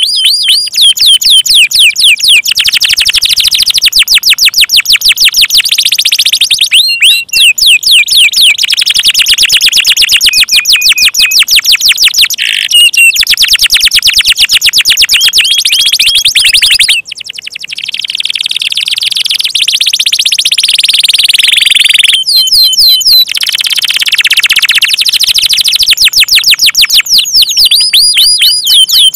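Domestic canary in full song: long, rapid trills of high repeated chirps, switching from one trill to another every few seconds, with a brief break just past halfway.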